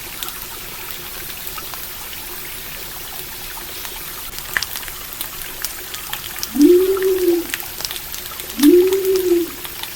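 Stream water trickling steadily, with small sharp campfire crackles scattered through it. In the second half, two low hooting calls about two seconds apart, each rising quickly and then holding, are the loudest sounds.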